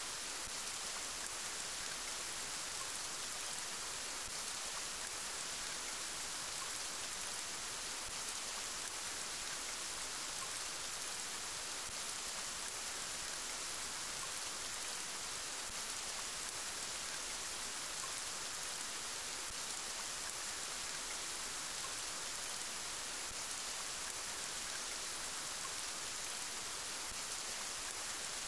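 Steady rainfall: an even, unbroken hiss that stays at one level throughout, brightest in the upper range.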